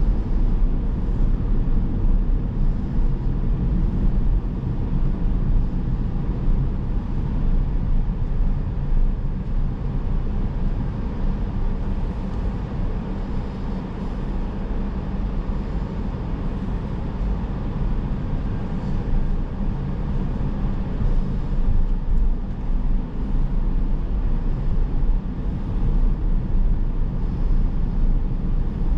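A car driving at a steady pace: even, low tyre-and-road and engine noise with no sudden events.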